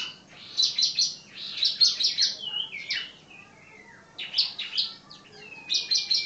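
Common iora (cipoh) singing: bouts of quick, sharp chirps in clusters with short pauses between them, and one long, slightly falling whistle near the end.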